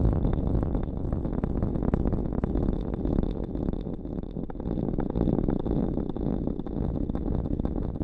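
Close-miked ASMR rustling and rubbing against the microphone: a dense, continuous run of soft crackles and scratches, heavy in the low end.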